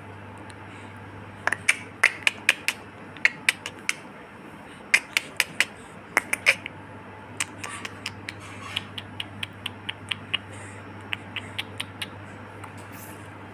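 Irregular clusters of sharp clicks or taps, several a second, over a steady low hum.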